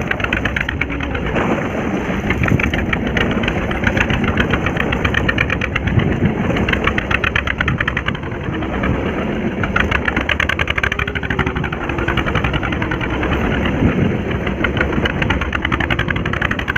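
Fishing boat's engine running steadily, a fast even chugging throughout.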